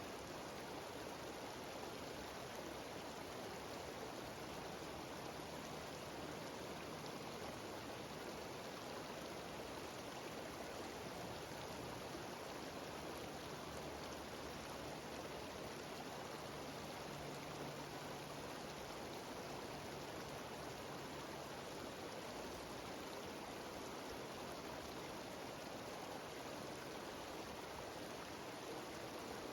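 Mountain stream cascading down a waterfall: a steady, even rush of running water.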